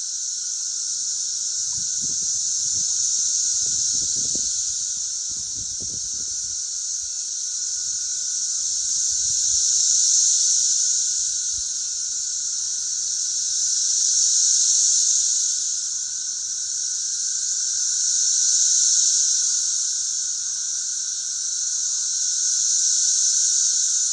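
A chorus of cicadas buzzing together: a steady, high-pitched drone that swells and fades in waves about every four to five seconds, with a fainter steady lower-pitched whine underneath.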